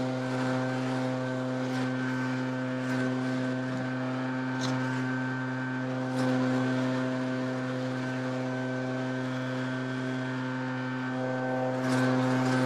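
Small petrol engine on leaf-cleanup power equipment running steadily at constant high speed, its pitch unchanging, with a few brief louder swells.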